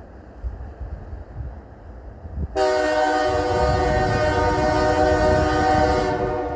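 Diesel freight locomotive's air horn sounding one long blast of about three and a half seconds, a chord of several tones that starts suddenly a couple of seconds in, over a low rumble.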